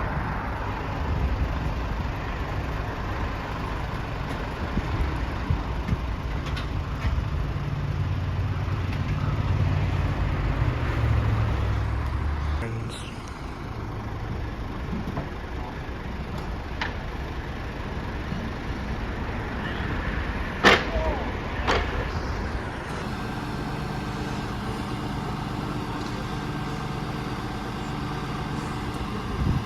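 Heavy truck engine running, with a strong low rumble under load for the first twelve seconds or so, then easing off and settling into a steady drone. Two sharp bangs come about two-thirds of the way through.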